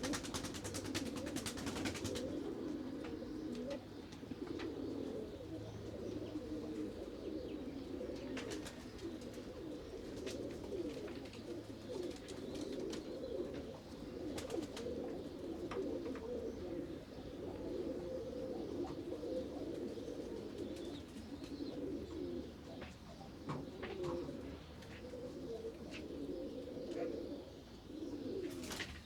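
A flock of pigeons cooing together, with many low coos overlapping continuously and a few faint clicks among them.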